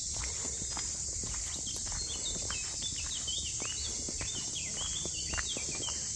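A steady, high-pitched chorus of insects buzzing, with a bird singing a quick series of short notes from about a second and a half in. Scattered light crackles and rustles, like footsteps on forest litter, run underneath.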